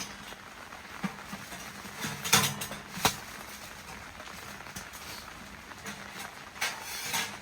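Scattered soft knocks and rustles over a faint steady background hiss, the loudest cluster a little over two seconds in, a sharp click about a second later, and another brief cluster near the end.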